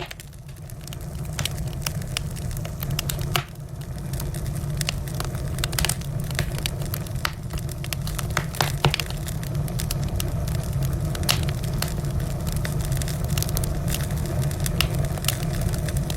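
Wood fire crackling, with frequent irregular sharp pops and snaps over a steady low rumble of the burning fire.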